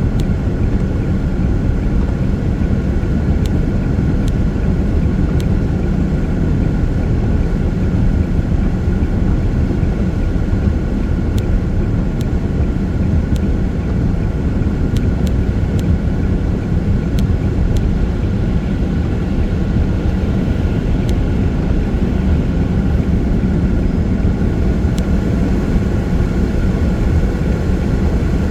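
Steady road noise of a vehicle driving on a rain-wet freeway: a continuous low rumble of tyres and engine, with a faint steady whine above it and scattered faint ticks.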